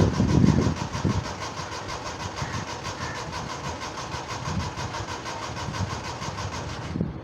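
Suzuki Mehran's small three-cylinder engine running, loud and uneven for about the first second as the pedal is pumped, then settling to a steadier, quieter run. The sound cuts off abruptly near the end.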